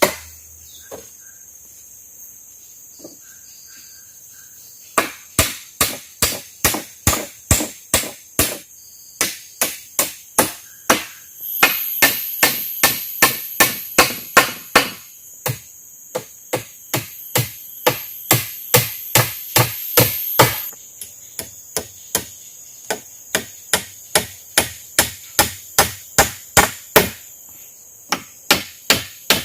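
A tool striking wood over and over, about two blows a second in long runs with short pauses, typical of chopping or driving wood while building a shelter. A steady high insect buzz sounds underneath and grows louder for several seconds in the middle.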